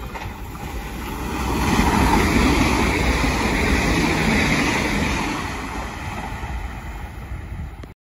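Irish Rail 22000 Class InterCity diesel railcar passing close at speed: a rush of wheel-on-rail and engine noise that swells over the first couple of seconds, holds, then eases off, cutting off abruptly near the end.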